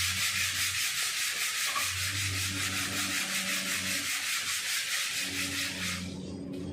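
Abrasive paper sanding cured body filler on a car panel, in quick, even strokes that stop about six seconds in.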